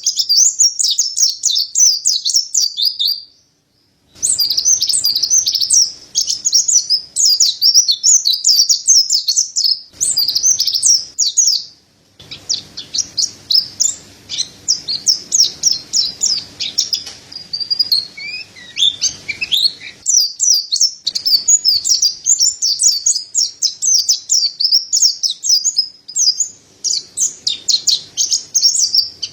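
Mountain white-eye (pleci montanus, white-breasted white-eye) singing: long, fast, high-pitched twittering phrases, broken by short pauses about three and a half and twelve seconds in.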